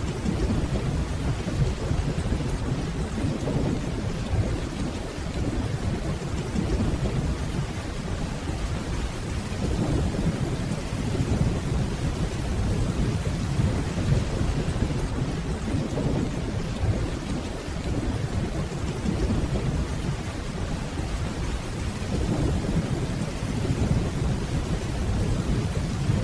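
Steady rainfall under a continuous low rumble of distant thunder that swells and eases gently several times.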